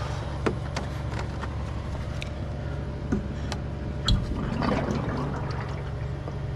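Coolant trickling from a barrel's tap into a jug, over a steady low hum. A few light clicks, and a louder knock about four seconds in.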